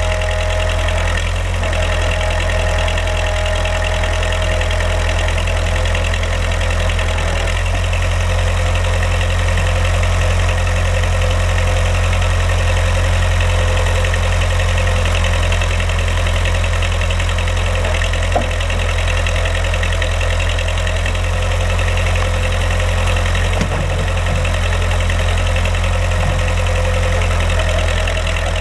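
Backhoe engine running at a steady speed, its low drone unchanged throughout, with no revving.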